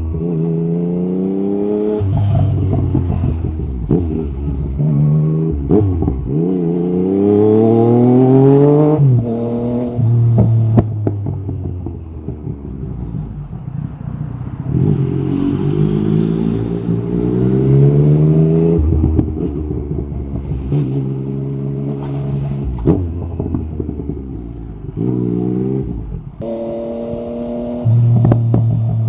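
Yamaha MT-09 SP's inline-three engine through an Akrapovic carbon Racing-Line exhaust with the dB-killer out, pulling hard through the gears. The pitch climbs and drops back at each upshift, falls away as the bike slows in the middle, then rises again with short blips of the throttle.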